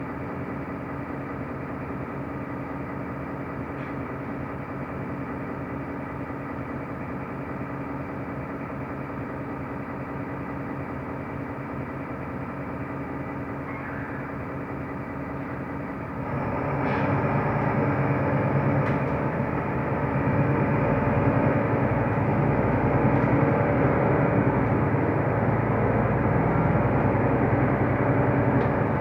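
Mercedes-Benz O345 Conecto LF city bus heard from inside the cabin: a steady diesel engine and road drone that grows markedly louder and rougher a little past halfway, as the bus pulls harder.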